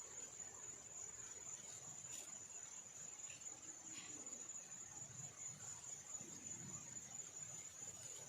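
Faint, steady high-pitched insect trill, cricket-like, that runs on without a break.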